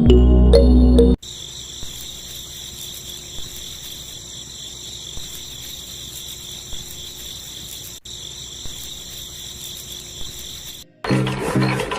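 Steady high-pitched chirring of insects, cut briefly about eight seconds in. Background music ends about a second in, and near the end a louder small engine starts up.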